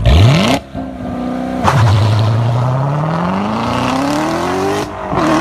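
Car engine revving hard as the car launches, with a burst of loud noise at the start. The engine pitch falls at an upshift about 1.7 seconds in, then climbs steadily under full acceleration, with another break near the end.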